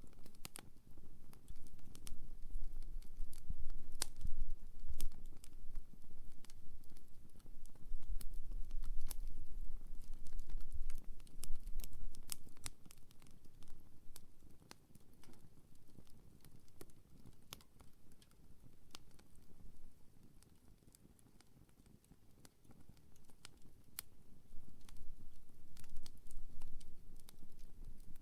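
Wood campfire crackling, with irregular sharp pops and snaps over a low rumble that swells and fades, dying down for a few seconds past the middle.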